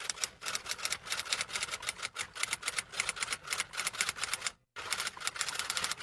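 Rapid, uneven clicking of keys being typed, with a short pause about four and a half seconds in.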